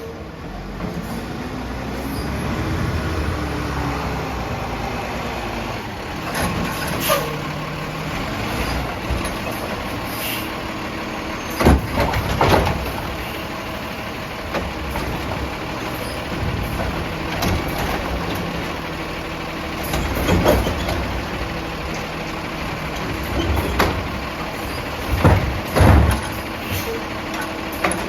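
Peterbilt 320 Wayne Curbtender garbage truck running, its diesel engine rising and falling in pitch a few seconds in, with several sharp metallic bangs scattered through, the loudest near the end.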